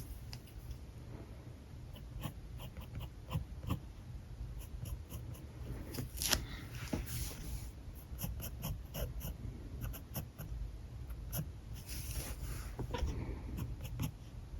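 Alcohol marker nib working on paper: scattered light taps and clicks, with longer scratchy strokes about six seconds in and again around twelve seconds, over a steady low hum.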